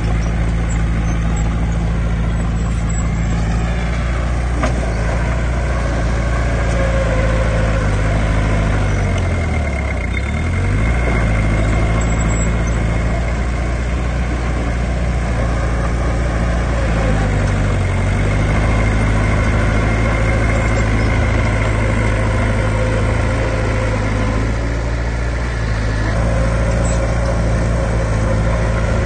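Heavy diesel engine of earthmoving machinery running steadily. Its pitch dips briefly and recovers about a third of the way through, and again just past halfway.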